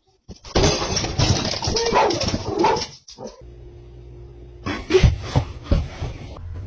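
A dog making noise, with clattering sounds. The noise comes in two stretches: a dense, loud one, then a brief break about three seconds in, then quieter sound with a few sharp peaks.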